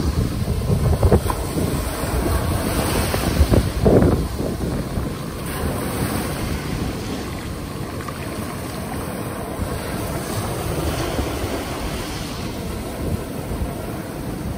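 Ocean waves breaking and washing in a continuous rush, with wind buffeting the microphone. Surges are heavier in the first few seconds, then the sound settles to a steadier wash.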